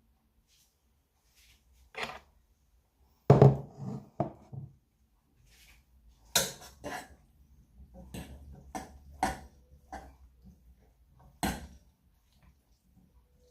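A kitchen utensil knocking and clattering against a cooking pan in a series of sharp, irregular knocks, loudest in a quick cluster about three seconds in.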